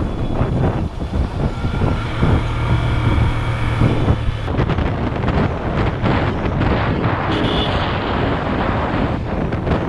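Motorcycle engine running under the rider, with wind buffeting the microphone and rough-road noise; a steady low engine hum is clearest in the first few seconds.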